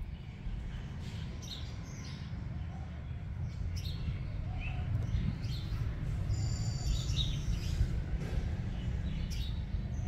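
Small birds chirping now and then, with one longer high call about six seconds in, over a steady low rumble.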